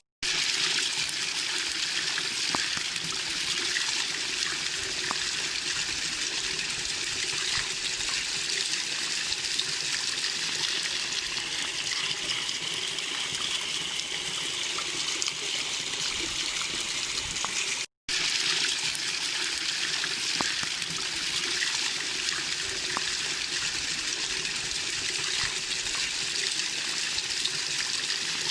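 Small waterfall splashing and rushing steadily, a constant hiss of falling water. It is broken by two split-second gaps of silence, just after the start and about 18 seconds in.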